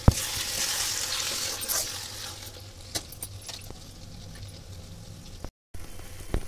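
A sharp knock, then sizzling in the hot kadhai as soaked chana dal is tipped in with the frying tomatoes and onions and stirred with a spatula. The sizzle is loud for about two seconds, then settles lower, with a few clicks of the spatula. The sound drops out briefly near the end.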